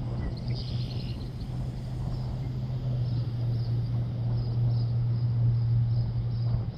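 A small bird chirps short high notes about twice a second, with a quick trill about half a second in. A constant low hum runs under it.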